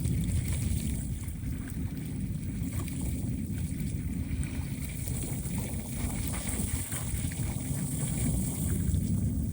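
Strong wind buffeting the microphone in a steady low rumble, with choppy lake water lapping and sloshing against the shore.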